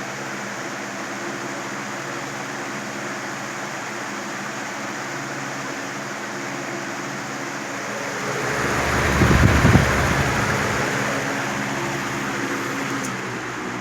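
Lasko 3720 Weather Shield 20-inch box fan running steadily, its plastic blades moving air with a motor hum beneath the rush. About eight seconds in, a louder, deeper rush of air swells, peaks, then fades over the next few seconds.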